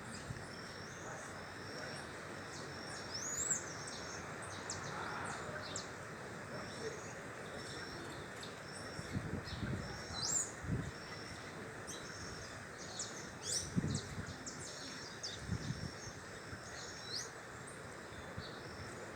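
Birds chirping in short high notes, with a few quick rising whistled calls and an evenly repeated high note pattern behind them. Several dull low thumps come in the middle stretch.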